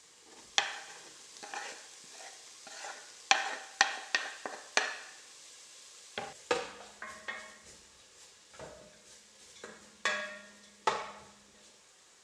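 Kitchen clatter: irregular sharp clinks and knocks of utensils against dishes, some ringing briefly. A faint low hum runs under the second half.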